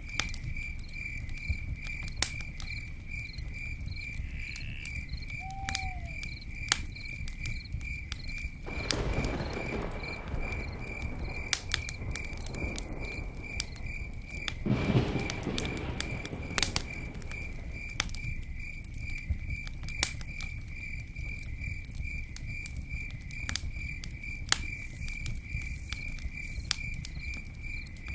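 Campfire crackling with scattered sharp pops, over a cricket chirping in a steady high pulsing trill. Two short rushing swells of noise rise and fall about 9 and 15 seconds in.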